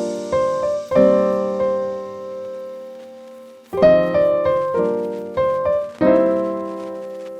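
Background piano music: a slow run of struck chords, each left to ring and fade, with one long chord dying away before the playing resumes.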